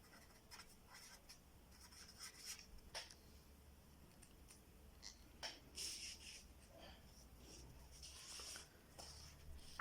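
Faint scratching of a pen writing on paper, in short separate strokes with pauses between them.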